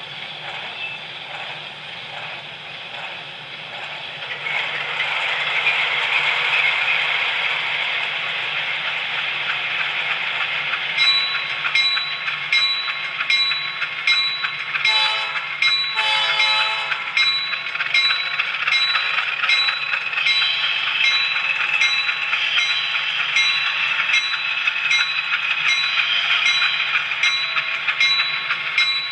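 HO scale model train running on the track: a steady whirring hiss that grows louder about four seconds in, then regular clicks about twice a second. A short horn sounds twice about halfway through.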